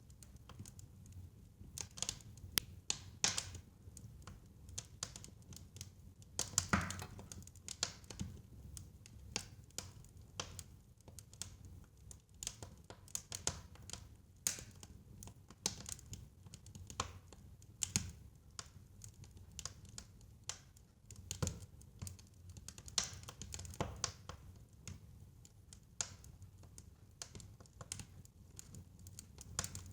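Fire crackling in a fireplace: irregular pops and snaps, a few louder than the rest, over a low steady rumble.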